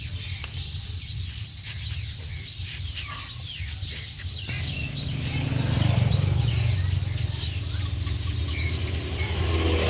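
Birds chirping in many short calls over a steady low rumble that gets louder about halfway through.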